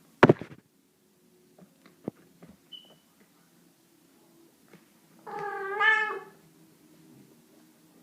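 A house cat gives one long, drawn-out meow that rises in pitch, about five seconds in. Near the start there is a sharp loud thump, followed by a few light clicks.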